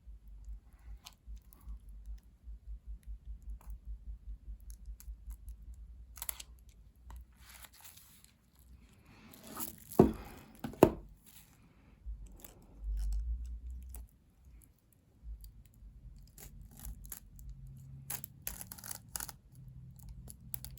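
Plastic shrink wrap on a book being cut and pulled open, crinkling and tearing, with soft handling knocks. About halfway through come two sharp clicks, the loudest sounds here.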